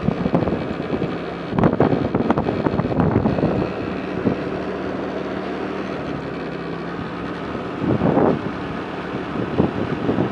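Vehicle travelling along a road: a steady engine hum and road noise, with wind buffeting the microphone in gusts, loudest about two seconds in and again about eight seconds in.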